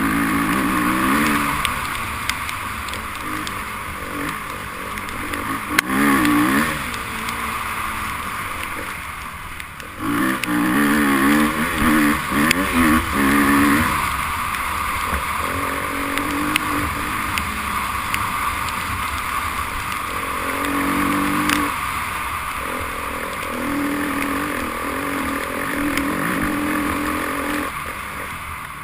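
Enduro motorcycle engines revving, the pitch rising and falling in several bursts of throttle over a steady background hiss.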